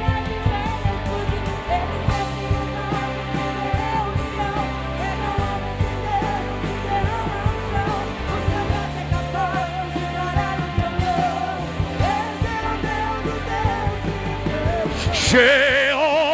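Live church worship band playing with a steady drum beat and bass; a singing voice with heavy vibrato comes in near the end.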